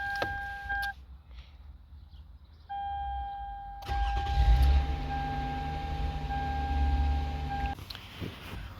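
2008 Toyota Sienna's starter cranking the engine for about four seconds without it catching, then stopping. A steady electronic warning tone sounds before and during the cranking. This crank-no-start could be the immobilizer not recognising the key after the remote-starter reset.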